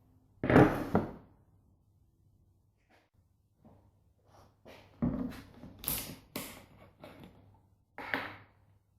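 Irregular knocks and clunks, as of hard objects being set down or handled: a loud double knock about half a second in, then a cluster of several knocks from about five seconds to near the end, over a faint steady hum.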